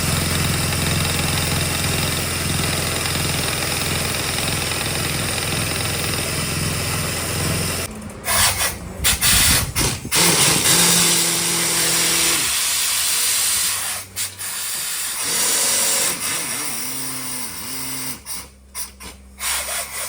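Engine of a small borewell drilling rig running steadily. About eight seconds in the engine sound drops away, and a loud hiss of rushing air comes and goes in uneven spurts with several abrupt breaks.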